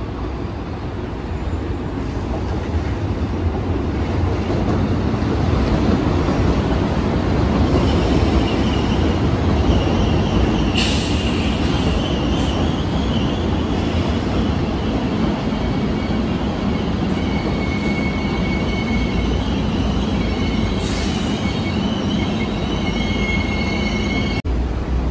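Passenger train on an elevated railway viaduct, its wheels squealing in thin high tones that come and go over a steady low rumble. A short hiss is heard about eleven seconds in and again about ten seconds later.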